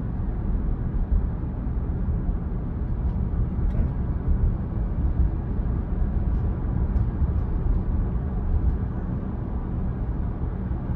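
Steady low road and tyre rumble inside the cabin of a moving 2022 Tesla Model Y Performance, an electric car with no engine note.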